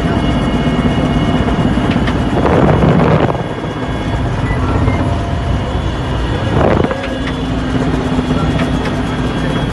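Helicopter engine and rotor running steadily, with two brief louder surges of rushing noise, about two and a half seconds in and again near seven seconds.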